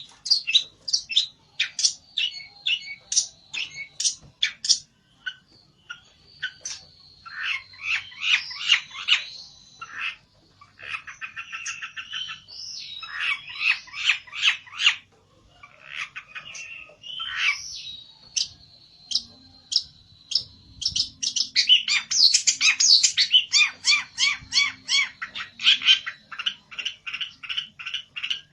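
Pelentet bird singing in fast runs of sharp chirps and rattling trills broken by short pauses: the agitated song of a bird challenging a rival.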